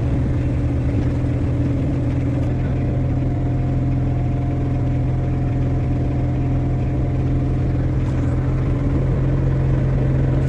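Mini excavator's diesel engine running steadily with a constant low hum.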